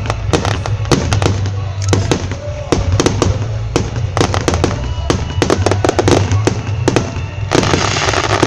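Fireworks going off in a loud, rapid volley of bangs, several a second. Near the end the bangs give way to a dense crackling rush.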